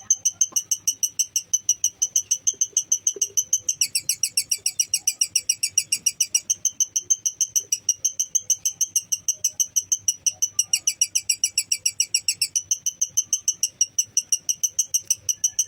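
Lovebird's long chattering trill, the ngekek: high, fast notes repeated about seven times a second without a break. Twice the notes turn into quick downward sweeps before returning to the steady chatter.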